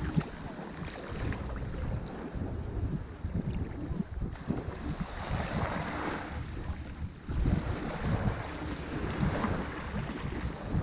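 Ocean waves breaking and washing onto a shore, one wave surging up about five to seven seconds in, with wind rumbling on the microphone.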